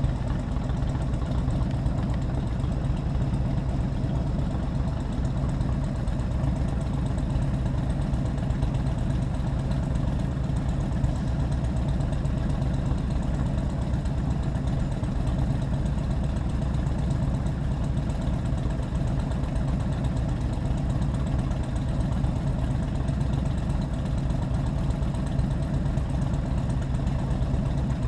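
Motorcycle engine running steadily at low speed, with an even hum that does not rise or fall.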